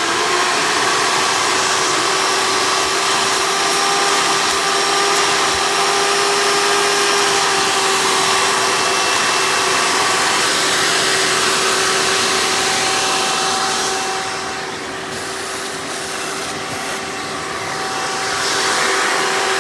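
Hoover Elite upright vacuum cleaner running with its flex hose attached, a steady motor whine over rushing air. About two-thirds of the way in, the sound drops and dulls for a few seconds, then comes back up near the end.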